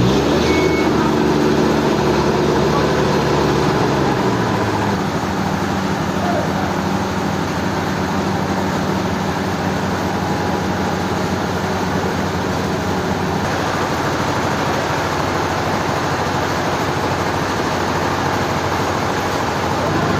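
Heavy machinery engine running under a steady wash of mechanical noise, its pitch dropping over the first few seconds and then holding steady.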